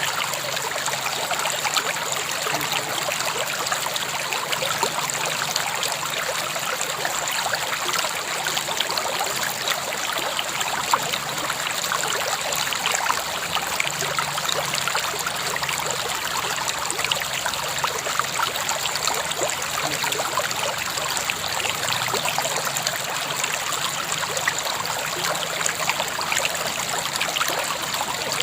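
River water flowing steadily over rocks, a continuous rushing and splashing with small bright splashes and no change in strength.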